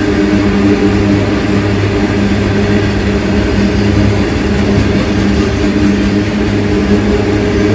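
Open-top coal wagons of a freight train rolling past close by on steel rails: a loud, steady rumble of wheels on track with a low hum.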